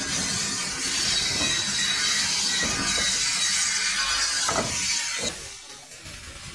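A heritage train running slowly into a station, heard from an open carriage window: a steady hiss over the rumble of the carriage, with a few knocks from the wheels. The hiss drops away a little after five seconds in, leaving a quieter rumble.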